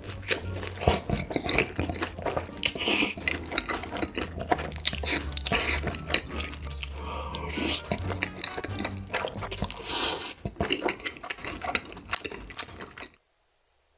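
Close-miked eating: a bite into a sauce-dipped corn dog, then chewing full of small crackling clicks and crunches. It cuts to silence near the end.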